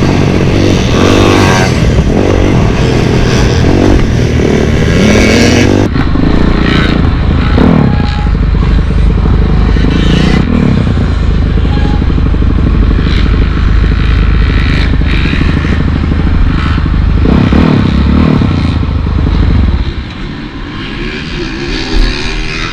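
Honda CRF450R four-stroke single-cylinder motocross bike being ridden, its engine revving up and down with the throttle. The engine sound drops off sharply about twenty seconds in.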